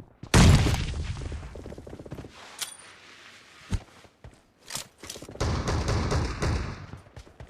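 Video game gunfire: a loud shot about half a second in with a long fading tail, a few single shots, then a burst of rapid automatic fire in the second half.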